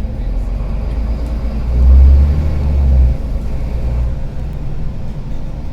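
Engine of a Karsan Avancity+ articulated city bus running with a rattly low rumble. It swells louder for about a second and a half, starting just under two seconds in, then settles back.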